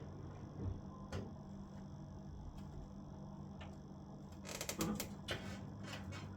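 Faint steady hum of room tone with scattered small clicks and taps, and a short flurry of clicks about four and a half seconds in.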